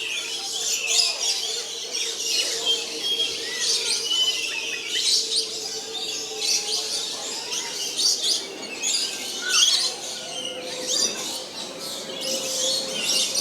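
Many birds chirping and calling at once: a dense, continuous chorus of short high chirps and whistles.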